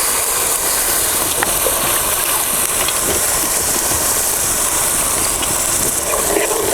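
Spice paste in hot oil sizzling and hissing steadily in a kadai as water added to it comes up to a boil.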